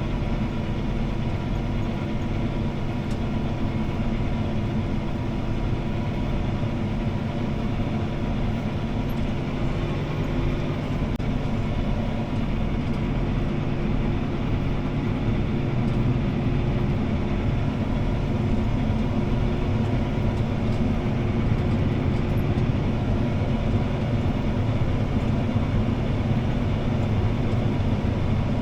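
CLAAS ARION 650 tractor's six-cylinder diesel engine running steadily under load while pulling a disc harrow, heard from inside the cab as a constant hum over a low rumble.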